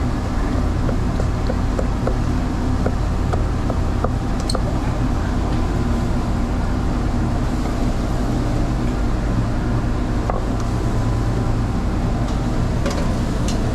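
Knife slicing grilled teriyaki chicken on a cutting board, with light taps, fairly regular in the first few seconds and then occasional, over a steady low machine hum.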